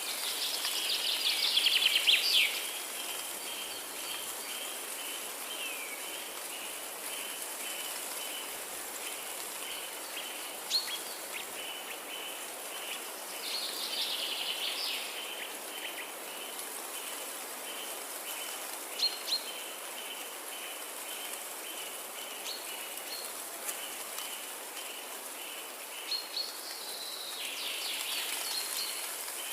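Forest ambience: a steady hiss under songbird calls. A bird sings three short, busy phrases, about a second in, midway through and near the end, with a few single chirps between them. A steady, rapidly pulsing high chirr runs beneath the song.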